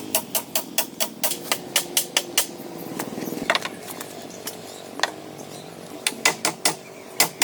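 Rapid, regular tool strikes, about four a second, in two runs with a few single knocks in the pause between them, typical of hammering or chopping during hand shelter-building work.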